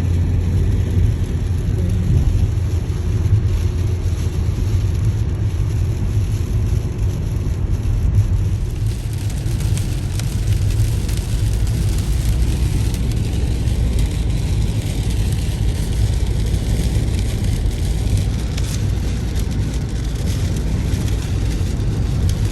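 Road noise inside a moving car: a steady low rumble, with a hiss of rain and wet road that grows about eight seconds in.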